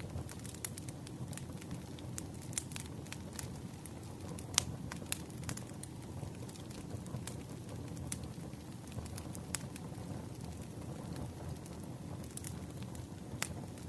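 Wood campfire crackling: irregular sharp pops and snaps over a low, steady rush of the burning fire, with one louder pop about four and a half seconds in.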